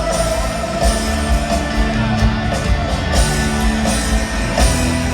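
Rock band playing live: an instrumental stretch with no vocals, sustained guitar and keyboard-like tones under sharp percussive hits every second or so.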